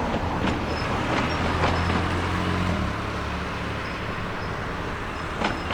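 Electric train of the Sangi Line running past: a steady low hum whose pitch drops about three seconds in, with a few sharp clicks now and then.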